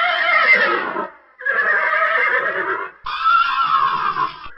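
Horse whinnying: a recorded whinny about a second and a half long, played again and again with short breaks.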